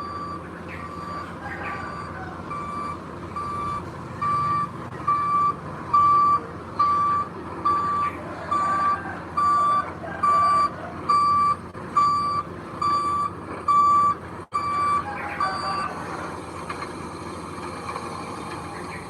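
Reversing alarm on a heavy construction vehicle, beeping steadily at about one and a half beeps a second over the running engine. The beeps grow louder a few seconds in and stop near the end, leaving only the engine.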